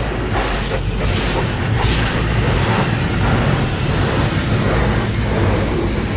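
Automatic car wash running, heard from inside the car: a steady rush of water spraying against the body with a low mechanical rumble beneath.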